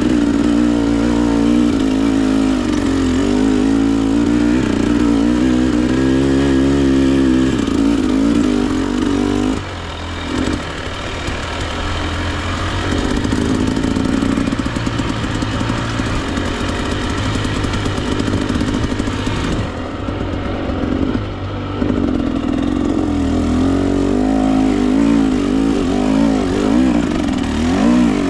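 Two-stroke Husqvarna TE 300 dirt bike engine working up and down through the revs on a trail climb, with the throttle shut off briefly about ten and twenty seconds in.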